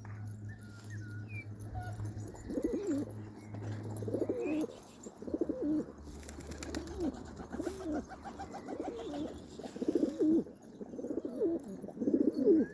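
Domestic pigeons cooing, a run of deep, rolling coos about once a second beginning a couple of seconds in.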